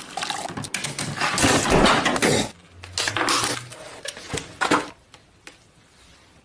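Hard objects clattering and crashing, a dense rattle with many sharp knocks, then a few separate bangs that die away after about five seconds.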